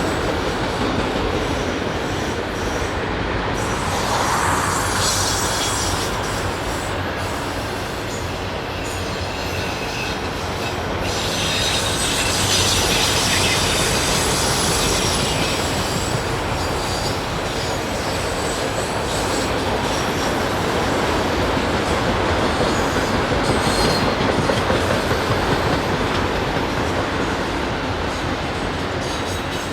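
Norfolk Southern freight train rolling past with a steady rumble of wheels on rail. High-pitched wheel squeal rises at times, loudest about four seconds in and again from about eleven to sixteen seconds in.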